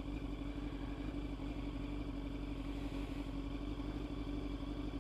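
Motorcycle engine idling steadily at one even pitch.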